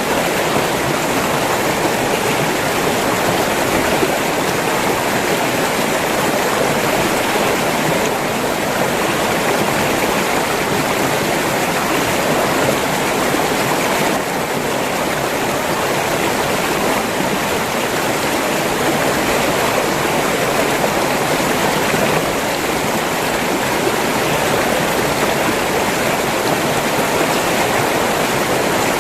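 River water flowing and rushing over rocks, a steady, even sound with no pauses or changes.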